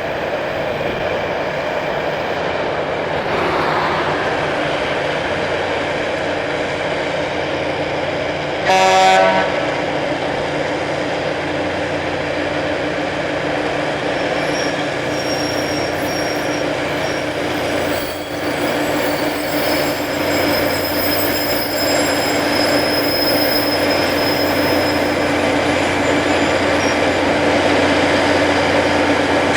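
Rail grinding train at work: a steady grinding noise over the hum of its diesel engines, with one short horn blast about nine seconds in.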